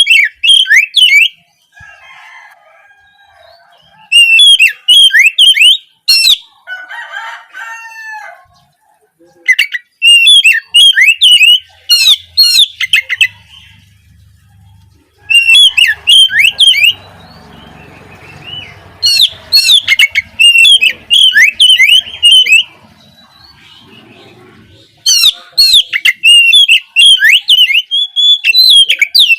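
Oriental magpie-robin (kacer) singing in repeated bouts of rapid, sharply falling whistled notes, each bout a second or three long with short pauses between. Fainter, lower calls from another bird sound in some of the pauses.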